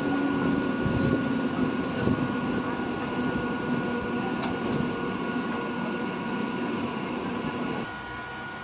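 A passing train rolling by with a steady rumble and a few sharp clicks from the wheels. The sound drops off suddenly near the end.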